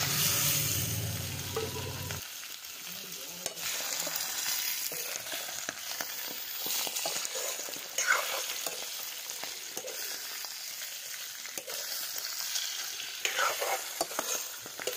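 Raw chicken pieces sizzling in hot oil in an iron kadai, stirred with a metal spatula that scrapes and clicks against the pan. A low hum runs underneath for the first two seconds, then stops.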